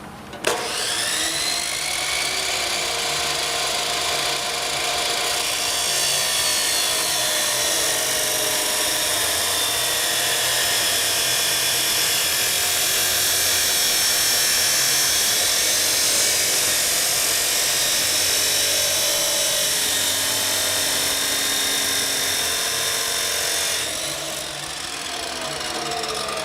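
A high-speed power tool spins up about half a second in and runs with a steady high whine, cutting through the steel Panhard bar to take a section out of its middle. It eases off slightly near the end.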